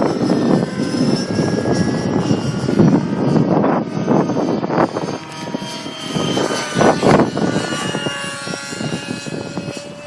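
Align T-Rex 600 Nitro RC helicopter in flight, its two-stroke glow engine and rotor whining and changing pitch up and down as it manoeuvres, with strong wind gusting across the microphone.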